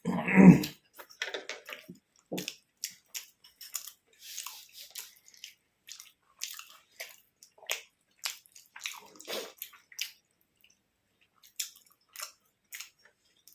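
Close-up eating sounds: chewing with a quick, irregular run of lip smacks and mouth clicks, after a short spoken word at the very start.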